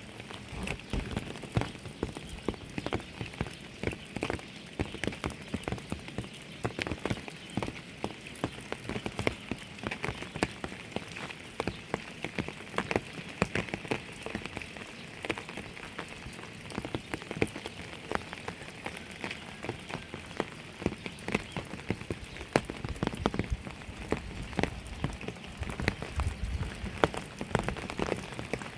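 Rain falling steadily, with many separate drops striking a surface in quick, irregular ticks over a constant hiss.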